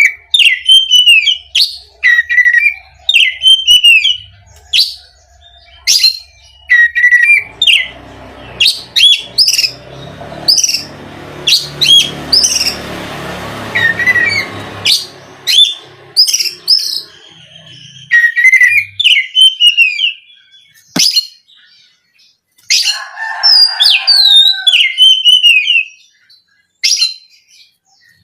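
Oriental magpie-robin singing: loud, rapid bursts of gliding whistled and scratchy notes, repeated about once a second with short pauses between phrases.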